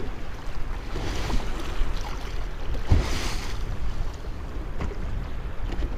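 Strong wind rumbling on the microphone over waves washing against a boat on rough water, with a few knocks, the loudest about three seconds in, and a swell of splashing hiss just after it.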